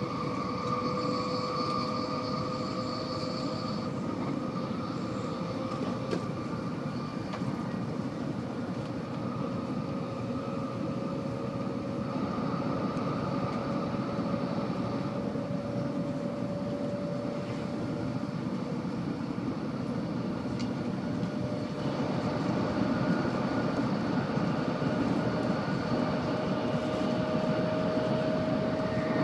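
Tokaido Shinkansen high-speed train running at speed, heard from inside the passenger car: a steady rush of running noise with a thin whine that slowly rises in pitch. The noise grows a little louder about two-thirds of the way through.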